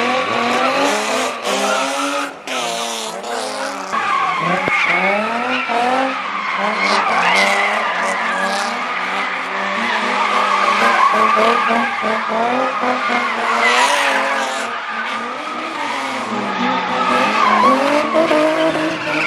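A high-powered car doing donuts or a burnout: the engine revs up and down over and over while the tyres squeal and skid without a break.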